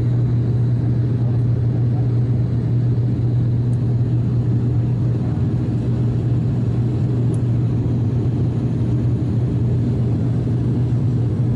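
Steady low drone of an ATR 72-600's two Pratt & Whitney PW127 turboprops and six-bladed propellers, heard inside the passenger cabin, with one strong low hum and an even rumble beneath. The aircraft is at high power, taking off or climbing out.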